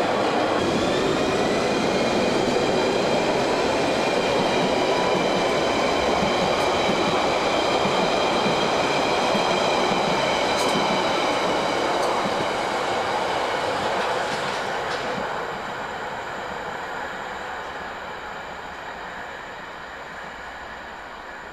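London Underground train running past on open-air track, wheels on rails with several high steady whining tones over the noise. It fades away over the last third as the train moves off.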